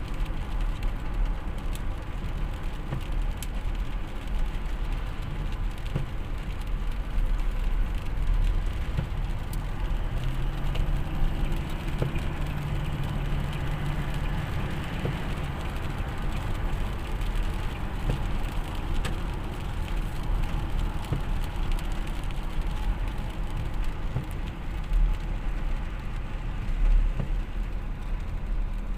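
Steady vehicle travel noise on a rainy road: a deep rumble of engine and tyres with a wash of rain. A low steady hum comes in about ten seconds in and fades a few seconds later.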